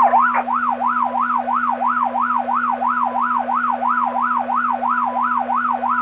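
Police car siren on a fast yelp, rising and falling about three times a second, heard over a police radio channel with a steady hum underneath. It comes through because a patrol car's radio transmitter is stuck on.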